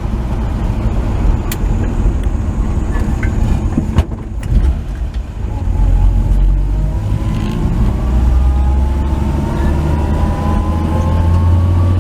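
1949 Chevy 3100 pickup's engine and exhaust running on the road. The sound dips briefly about four seconds in, then the engine note climbs steadily in pitch as the truck accelerates.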